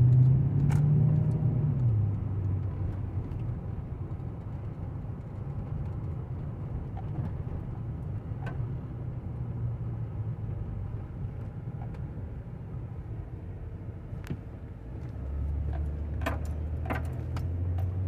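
Car engine running with road rumble, rising in pitch briefly at the start, then a steady drone that drops to a lower, stronger note about three seconds before the end. A few light clicks are scattered through it.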